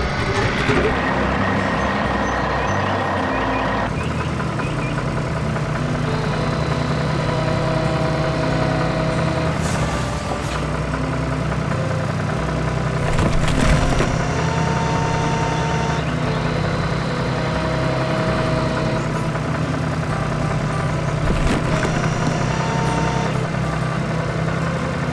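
Heavy diesel machinery running steadily with a low engine drone, with a few sharp knocks about ten and thirteen seconds in.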